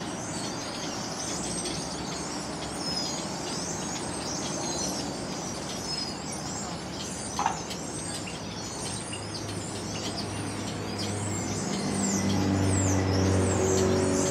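Dense chorus of many small birds chirping together as they settle to roost, with one louder call about halfway through. A low, steady engine hum comes in beneath the chorus and grows louder from about eleven seconds in.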